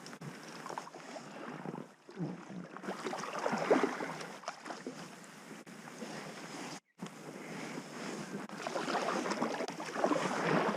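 Water splashing and sloshing around an inflatable packraft being paddled on a small river. The sound drops out completely for a moment about seven seconds in.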